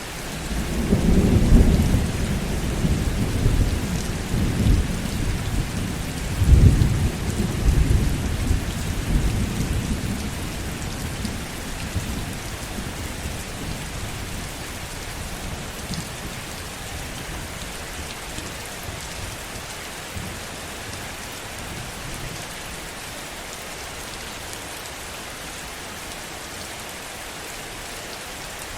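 Heavy rain falling steadily, with a low rolling rumble of thunder that swells about a second in, rises again around seven seconds and dies away after about ten seconds, leaving only the rain.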